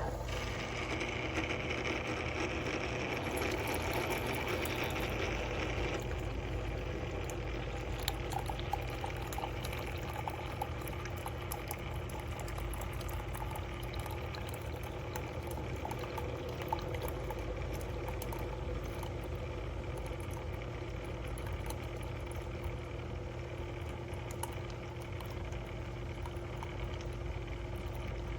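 Single-serve coffee maker brewing: a steady low hum with water hissing and bubbling through. The hiss is stronger for the first six seconds, then settles.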